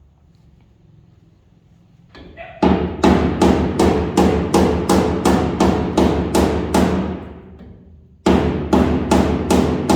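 Hammer blows on truck sheet metal, rolling the lip of the body panel. There are about two to three ringing metallic strikes a second, starting a couple of seconds in, with a short pause near the end before the strikes resume.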